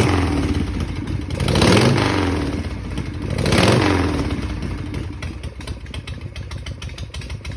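1983 Harley-Davidson Shovelhead V-twin engine being blipped with the throttle: it is revving at the start, revs up twice more about two seconds apart, each rev rising and falling, then settles to a steady idle for the last few seconds.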